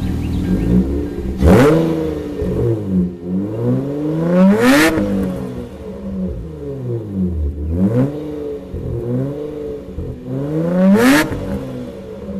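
Hyundai Tiburon's swapped-in 2005 Sonata engine, breathing through a short-ram intake and custom Hooker headers exhaust, being revved in repeated blips. Four big rises in pitch, each falling back toward idle, come with smaller blips between them.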